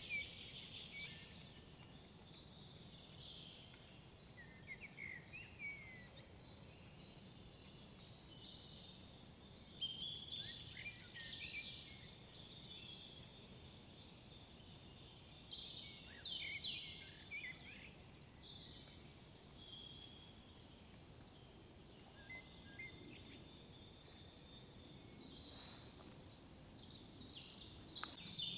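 Several songbirds singing, one of them repeating a phrase that ends in a high trill about every seven or eight seconds, over a faint steady outdoor hiss.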